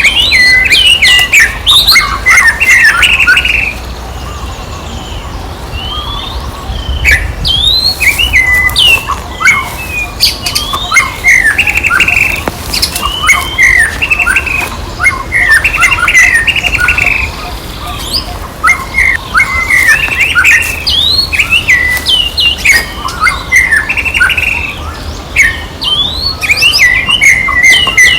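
Monkeys calling: many short, high-pitched squeals and chirps in quick runs, with a few brief pauses.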